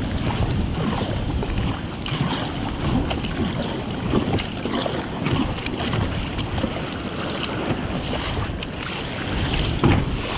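Wind buffeting the microphone over choppy sea, with water splashing and sloshing around a kayak.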